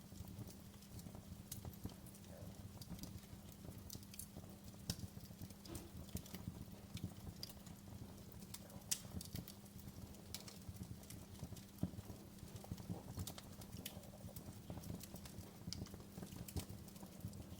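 Wood fire crackling: irregular sharp pops and snaps over a low steady rumble, the loudest snaps about nine and twelve seconds in.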